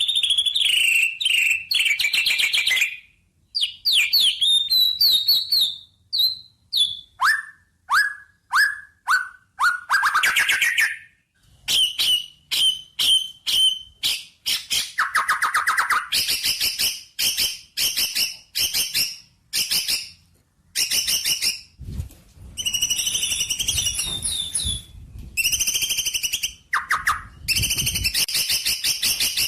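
Songbird singing a long, varied string of phrases: fast chirps and trills, runs of quick falling whistled notes, and rapid repeated notes, with short pauses between phrases.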